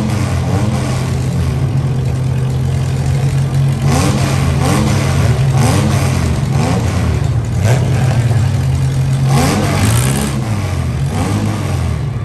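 Several compact demolition derby cars' engines revving up and down over and over, overlapping one another.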